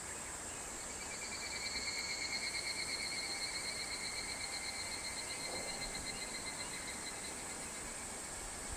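A higurashi (evening cicada) calling: a rapidly pulsed, ringing trill that comes in about a second in, swells and then slowly fades away. A steady high-pitched insect hiss runs underneath.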